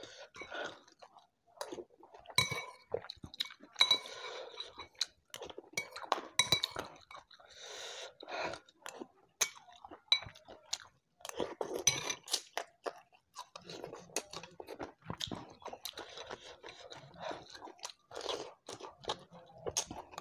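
Close-miked eating: chewing and crunching on mouthfuls of vegetables from a tamarind vegetable soup (sayur asem), with a metal spoon clinking against the ceramic soup bowl a few times, each clink ringing briefly.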